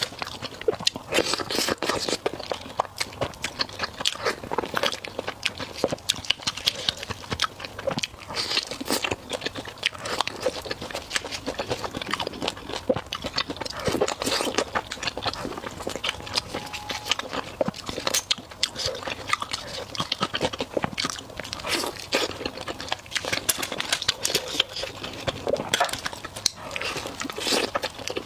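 A person biting and chewing food, a dense irregular run of short clicks and crunches of the mouth and food.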